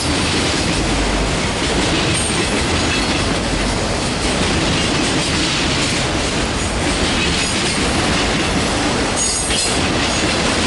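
Train cars rolling past close by: steady clatter of steel wheels over the rails, with brief faint high-pitched wheel squeal about nine seconds in.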